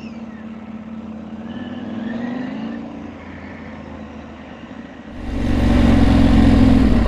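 Motorcycle engine running at low speed; about five seconds in it turns abruptly much louder, with a rushing noise of wind over the bike.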